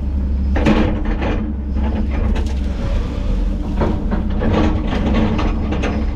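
Diesel engine of a heavy excavator running steadily under load, with scattered knocks and cracks of brush and logs being moved.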